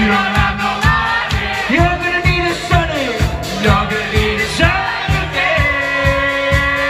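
Live indie rock band playing: drums keep a steady beat of about two kicks a second under guitars, and a lead line slides up and down between notes.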